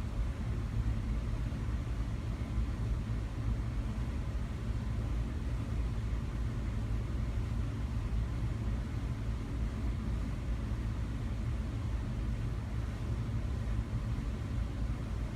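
Black ceiling fan running at a steady speed, giving an even, low whir of motor and moving air.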